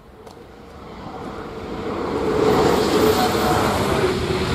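High-speed electric train approaching at speed: a rush of noise swelling from faint to loud over about two and a half seconds, then holding loud.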